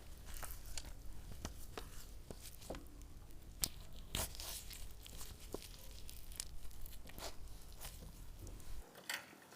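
Raw meat and chicken being threaded onto skewers by hand: irregular clicks, taps and short tearing scrapes, over a low hum that cuts off near the end.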